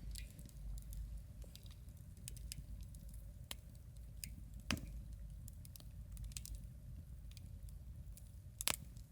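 Wood campfire crackling: scattered sharp pops and ticks, with two louder snaps about halfway through and near the end, over a steady low rumble.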